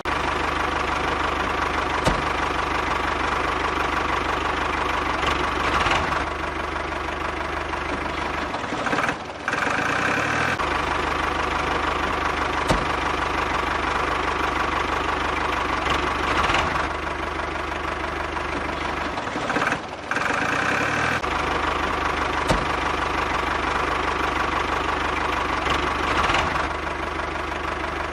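Steady engine-like running noise with a low hum, broken by short dips about every ten seconds where the same pattern seems to start over.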